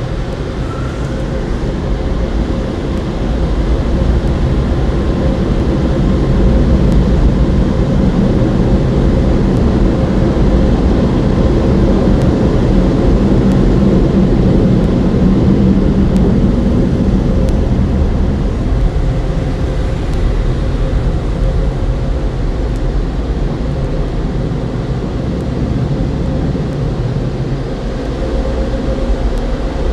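Car wash tunnel air dryers (Motor City Wash Works Air One blowers) blowing a loud, steady rush of air with a low hum. The noise builds over the first few seconds, then holds.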